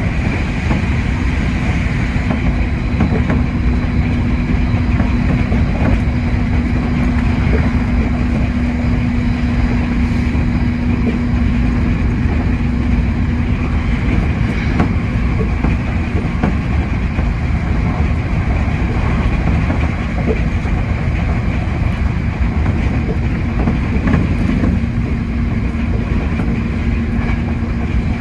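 Hankyu 8000 series electric train running at speed: a steady rumble of wheels on rail with a few faint clicks. A steady hum holds through the first half, fades out, and returns near the end.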